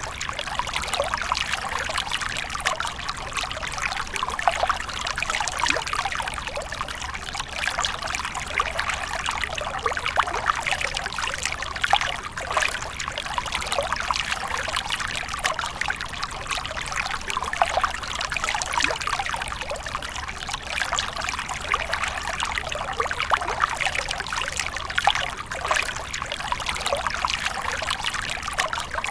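Water splashing and trickling without a break, a dense, steady run of small splashes and droplets.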